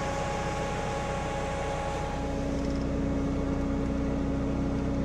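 Car engine running with a steady low hum, heard from inside the car. A further steady engine tone comes in about two seconds in.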